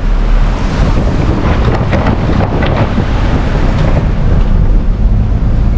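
Heavy rumble of a truck driving over a bridge, with scattered knocks and rattles through the middle.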